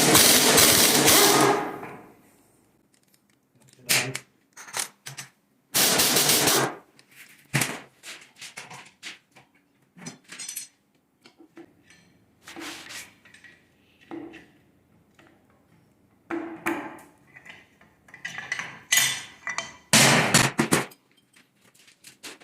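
Metal tools and engine parts clanking and knocking during the teardown of a Toyota 1FZ-FE engine, in scattered irregular hits. Three loud rushing noises about a second long come at the start, about six seconds in, and near the end.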